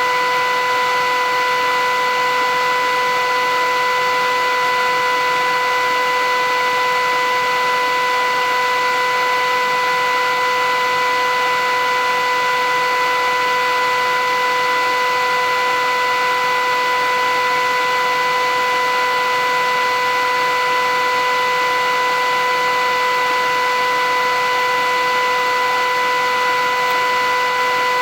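Philips 8000 series vacuum cleaner running steadily: an even motor whine over a constant rush of air.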